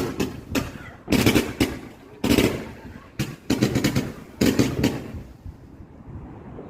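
Fireworks going off: clusters of sharp bangs and crackles coming thick and fast, thinning out over the last second or so.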